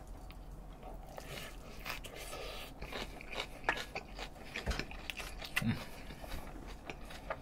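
Close-up mouth sounds of a person chewing a big mouthful of rice mixed with chicken and kimchi: irregular wet smacks and small crunchy clicks.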